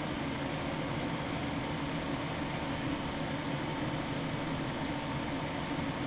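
Steady background hum and hiss, like a fan or air conditioner running, with a faint high tick about a second in and a couple more near the end.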